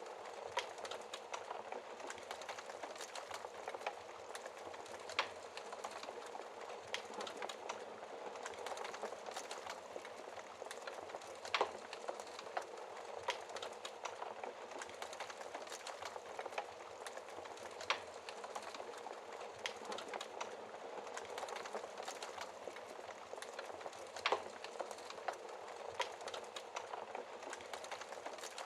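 Fire crackling behind a glass shield: a steady hiss full of small crackles, with a sharper pop about every six seconds.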